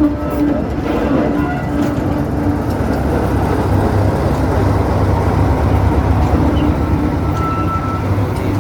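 Train running at the station platform: a steady, loud rumble with a low hum and an on-and-off droning tone.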